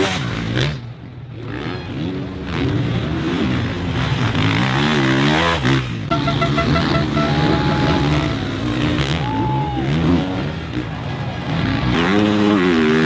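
450cc four-stroke motocross bikes racing, their engines revving up and down again and again through gear changes and throttle chops. The sound dips briefly about a second in.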